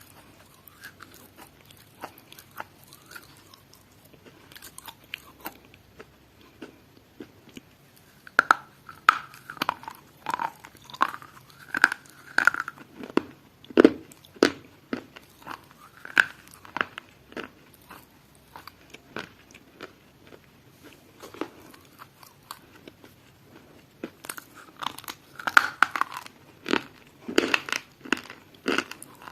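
Close-up chewing and biting of crunchy food, with runs of loud crunches between quieter stretches of light clicking chews.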